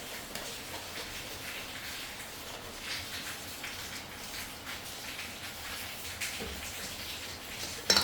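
Steady rain falling, a constant hiss dotted with many small drop ticks. A single sharp click sounds right at the end.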